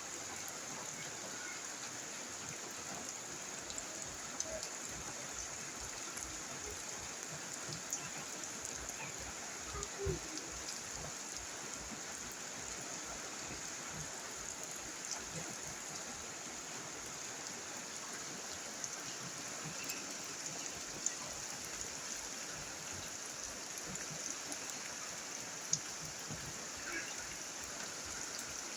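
Steady rain falling: an even hiss with scattered brief drop ticks.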